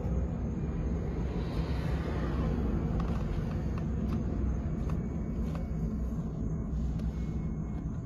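Steady low rumble, with a few faint clicks from handling the steering wheel's wiring and parts about three to five seconds in.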